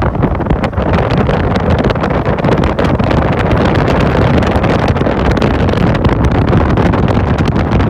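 Wind buffeting the microphone on a moving motorcycle taxi, loud and steady, with the motorcycle's engine running underneath.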